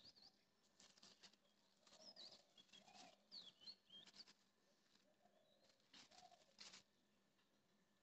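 Near silence, with faint bird chirps now and then and a few soft clicks.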